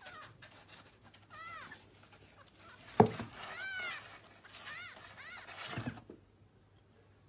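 A cat meowing three times, short calls that rise and fall in pitch. A sharp thump about halfway through, and the sound cuts off suddenly near the end.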